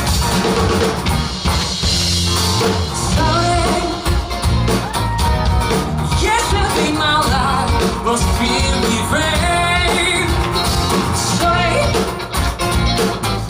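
Live band music with guitar, and a voice singing from about three seconds in.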